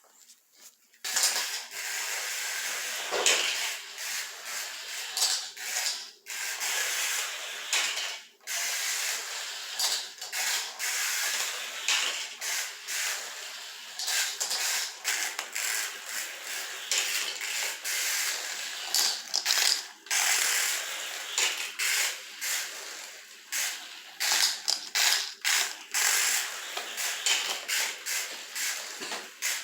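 Tiny electric motor and plastic gears of a 1/64-scale Hot Wheels RC Tesla Cybertruck running along the track, a gritty whirring that keeps stopping briefly and starting again.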